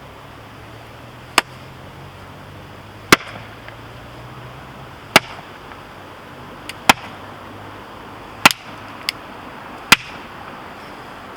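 Husqvarna hatchet chopping into firewood to split it: six sharp, loud strikes about every one and a half to two seconds, with one lighter knock near the end.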